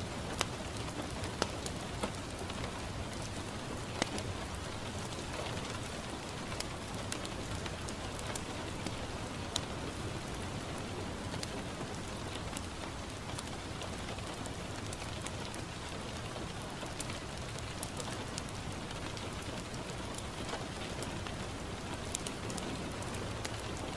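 Steady rain falling on a window, a constant hiss with scattered sharp ticks and pops, mixed with a crackling wood fire in a fireplace.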